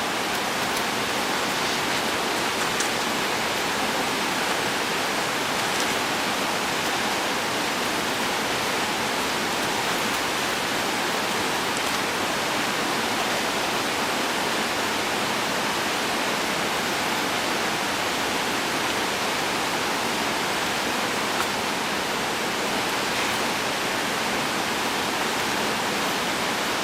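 River water rushing, a steady even noise that holds level throughout.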